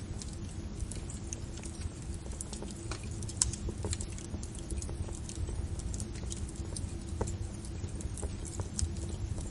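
Fire crackling: frequent irregular sharp pops and snaps over a steady low rumble.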